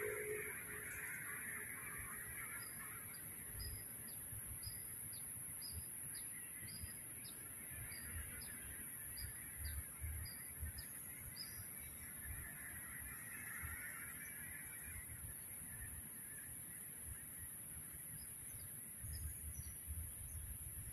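Faint outdoor birdsong: a short high chirp repeated about twice a second, stopping about twelve seconds in, over a steady high hiss.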